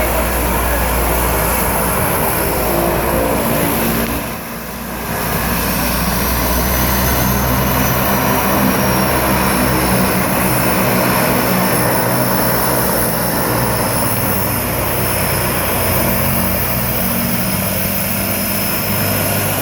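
Propeller airplane engines running steadily: a low propeller drone with a high whine that sinks slightly in pitch. The sound dips briefly about four seconds in.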